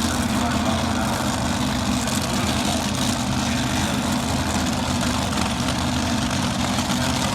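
An engine idling steadily: an even, low drone that holds level with no revving.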